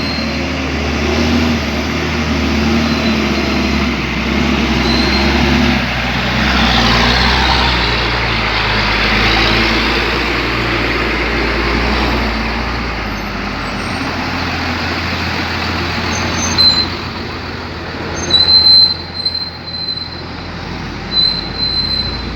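Heavy diesel truck engine running steadily. A louder hiss swells up partway through, and several short, loud, sharp sounds come near the end.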